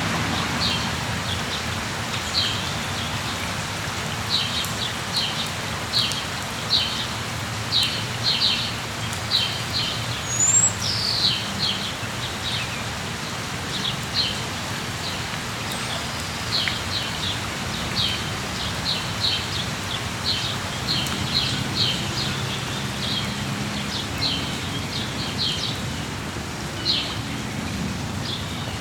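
Steady rain falling, with a small bird chirping repeatedly in quick, short high notes, and a brief rising whistle about ten seconds in.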